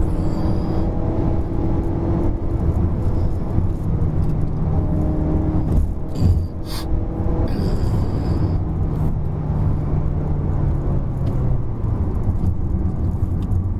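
Inside the cabin of a 2019 Mazda3 1.5-litre: the four-cylinder petrol engine runs with a steady hum over road and tyre rumble as the automatic, in sport mode, holds its gear on a downhill run. The engine note sags slowly in pitch as it goes.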